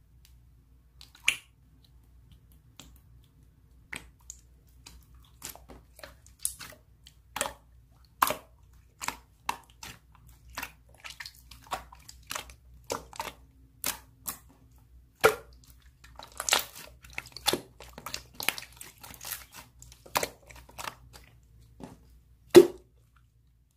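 Hands squeezing and pressing slime, making irregular sharp pops and crackles. They come more thickly past the middle, with one loud pop near the end.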